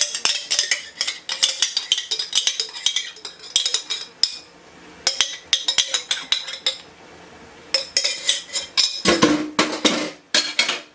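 A metal utensil scraping and clinking against a jar as cranberry sauce is spooned out, in quick runs of clicks and scrapes broken by short pauses.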